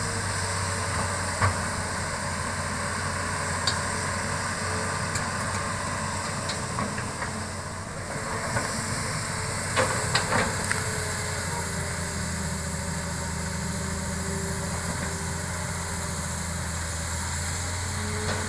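Hitachi excavator's diesel engine running steadily with a high hiss, broken by a few sharp knocks, several close together about ten seconds in.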